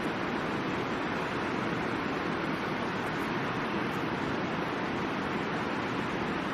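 Middle Fork of the Boise River rushing steadily, a continuous even water noise.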